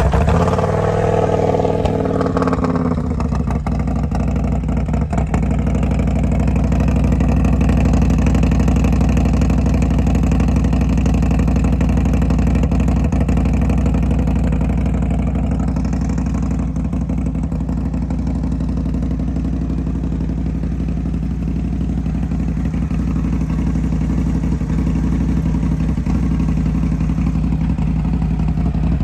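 Big-bore V-twin motorcycle engine (S&S 131 cubic-inch kit with S&S 540 cam) running through a D&D big bore baffled exhaust, just after a cold start. It runs faster for the first couple of seconds, then settles into a steady idle.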